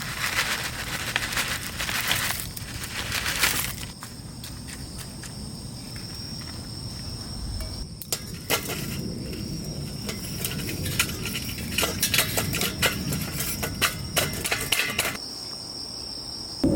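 Insects droning on two steady high notes, with scattered irregular clicks and crackles over a low background hiss.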